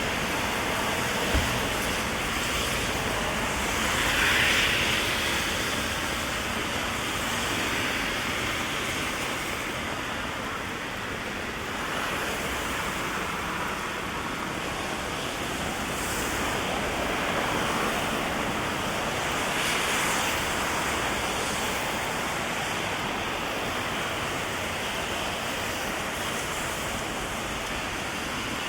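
Heavy rain falling in a steady hiss on a city street, with cars passing on the wet road, their tyres swelling up and fading away a few times, most clearly about four seconds in and again near twenty seconds.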